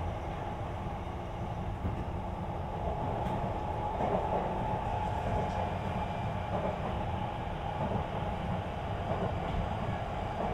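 Sotetsu 20000 series electric train heard from inside the passenger car while running between stations: a steady rumble of wheels on rail and underfloor equipment.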